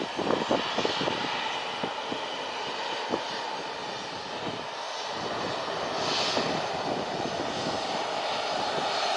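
Airplane engines running steadily: a hiss with a faint whine, growing louder toward the end.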